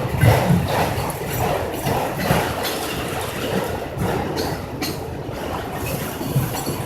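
Freight train of autorack cars rolling past, its wheels rumbling with irregular clattering knocks on the rails.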